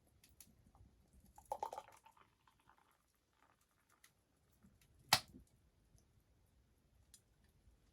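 Quiet handling noises: a short run of small clatters about one and a half seconds in, then a single sharp knock about five seconds in.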